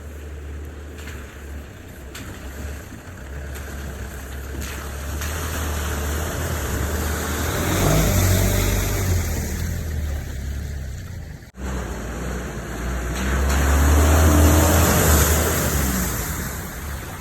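Toyota Hilux LN65's diesel engine labouring along a rough off-road track, revving up twice, with the pitch rising each time. Halfway through there is a brief sudden break.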